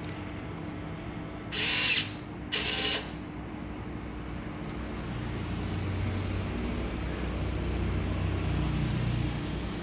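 Homemade wire-cutting machine running: two short harsh bursts about a second apart, then a steady low mechanical hum with faint regular ticks that grows louder in the second half.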